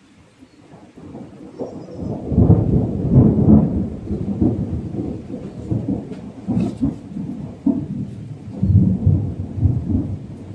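Thunder rolling in a long low rumble that builds over the first two seconds, peaks about three seconds in and swells again near the end, with rain falling steadily underneath.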